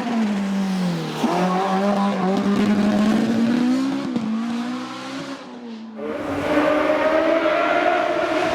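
Racing car engines on a hillclimb run: one car's engine drops in pitch about a second in as it lifts and shifts, pulls up again, then eases off; about six seconds in a different car's engine takes over, accelerating hard with a higher, steady note.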